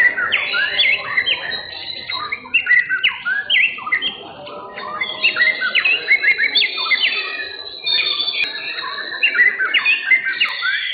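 White-rumped shamas singing at once, a dense overlapping stream of rapid whistled and chattering phrases.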